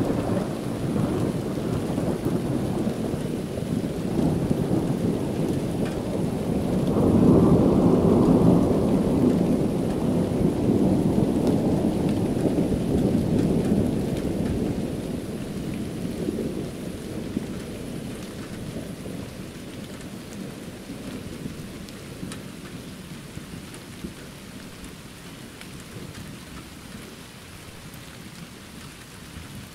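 Rain falling steadily with a long, low rumble of thunder. The rumble swells about seven seconds in, then slowly dies away over the next ten seconds, leaving only the even hiss of the rain.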